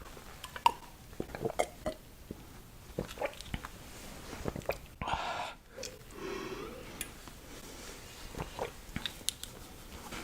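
Close-miked chewing of spicy Korean noodles, with many short wet mouth clicks. A brief breathy sound comes about five seconds in.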